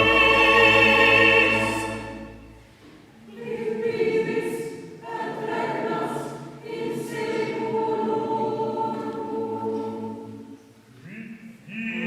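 Mixed choir with chamber orchestra performing a Mass setting. A loud held chord cuts off about two seconds in and dies away. Then the choir resumes with softer sung phrases on long held notes.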